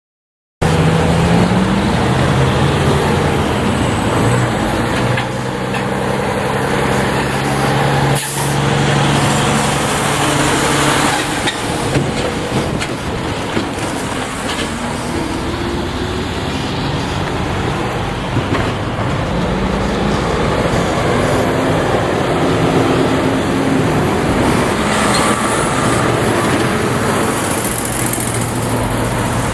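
Diesel locomotive running as it moves a train, a continuous engine drone with low tones that shift in pitch as the engine works. It cuts in suddenly about half a second in.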